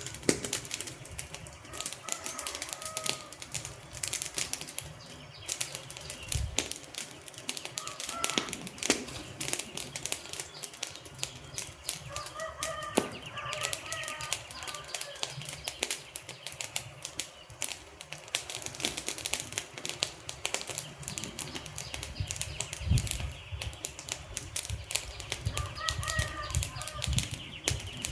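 Wood fire crackling, with dense irregular pops and snaps from the burning logs throughout. A few short, faint pitched warbles come and go now and then.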